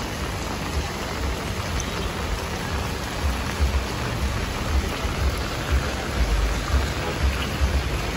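Steady rain falling on a wet paved street, an even hiss throughout. From about three seconds in, irregular low thumps sit beneath it.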